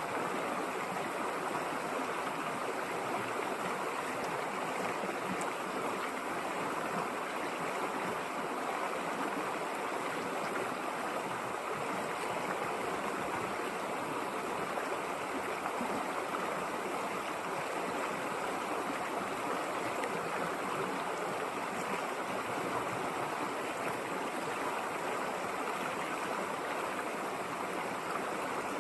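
River water running and rushing steadily over rocks, an even unbroken flow.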